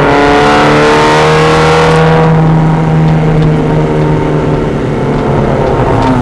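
Mazda Miata race car's four-cylinder engine running hard under acceleration. Its pitch climbs for about two seconds, then holds steadier.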